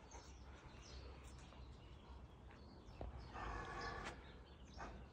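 Quiet outdoor background with a faint bird call about three and a half seconds in.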